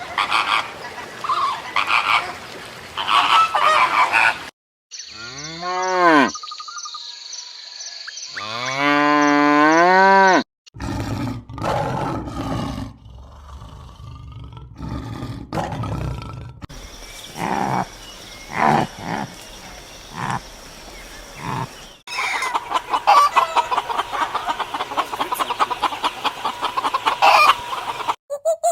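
A run of different animal calls, one clip cut after another. Among them are long calls that rise and then fall in pitch, and near the end a fast string of short repeated calls.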